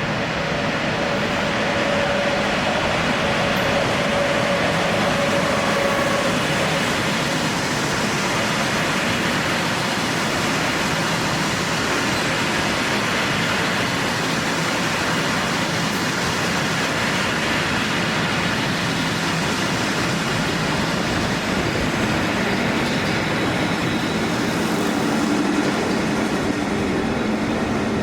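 Train hauled by an SJ Rc6 electric locomotive rolling by, with a loud, steady noise of wheels on rail.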